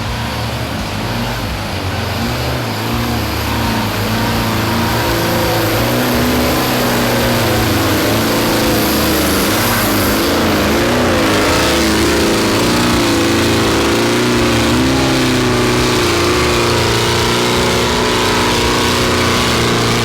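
An off-road 4x4's engine revving hard under load while it climbs a steep muddy hill, its pitch wavering up and down with the throttle. It grows louder over the first several seconds, then holds.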